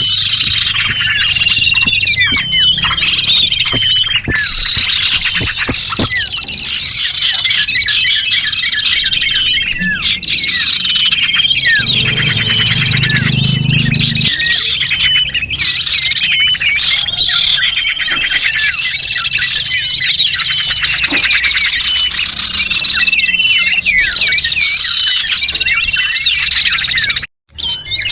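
Bird-lure recording of many small birds chirping and twittering at once: dense, overlapping quick high chirps and trills with no pause. The sound cuts out for a moment near the end.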